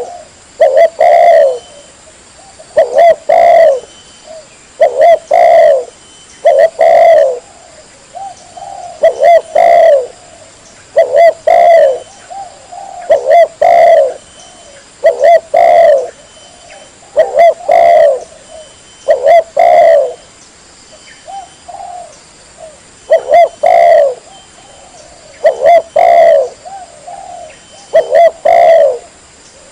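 Spotted dove (tekukur) cooing: short phrases of two or three coos, repeated about every two seconds.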